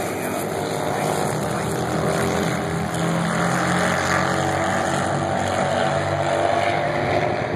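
Harley-Davidson XR1200 race motorcycles' air-cooled V-twin engines running out on the track, heard as a steady engine drone that swells a little about three seconds in.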